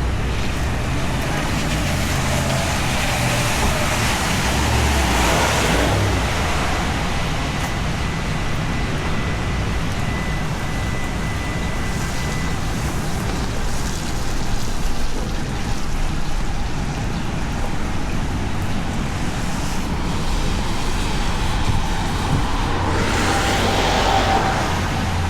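Steady rain with city street traffic: cars passing on wet pavement, their tyre noise swelling a few seconds in and again near the end.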